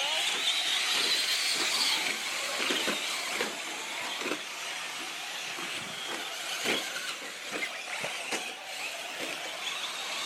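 Radio-controlled short-course trucks running on a dirt track: a high motor whine for about the first two seconds, then a steady hiss of tyres and loose dirt with scattered knocks and clatter.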